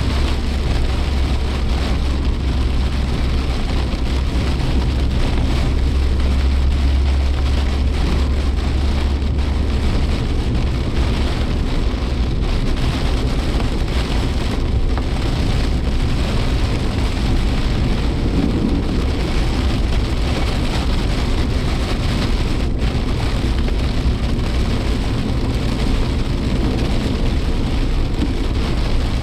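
Typhoon rain on a moving Suzuki Jimny Sierra, heard from inside the car, over a steady low rumble of engine and road noise that is heavier in the first third.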